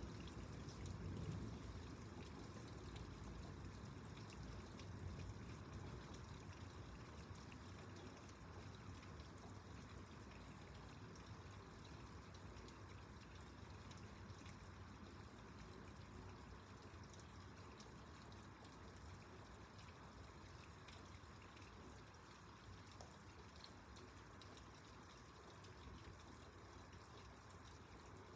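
Faint, steady rain with water pouring and dripping, as the tail of a low thunder rumble dies away in the first second or two.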